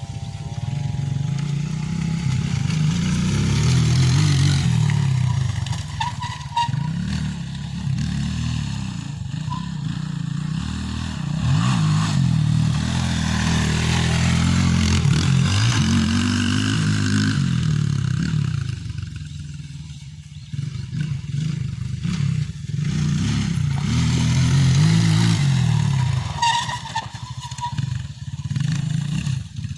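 Motocross dirt bike engines running hard, the pitch rising and falling over and over as the throttle opens and the bikes shift gears. The sound dies down briefly about two-thirds of the way through, then builds up again.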